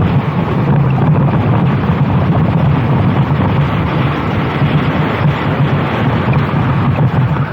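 Racing go-kart engine running hard at speed, with heavy wind buffeting the onboard microphone. The engine note holds fairly steady and wavers only slightly.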